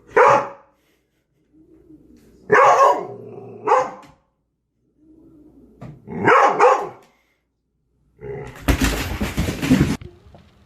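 Dog barking: four short, separate loud barks, then near the end over a second of loud, rough, hissing noise.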